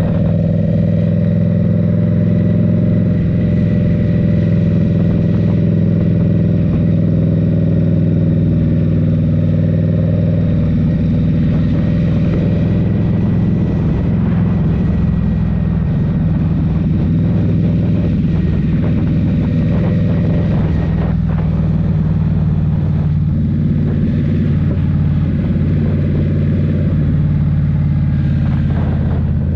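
Exhaust of a 2023 Indian Scout Rogue's 69 cubic-inch V-twin through a Rinehart slip-on, running steadily while riding, its note shifting only a little in pitch.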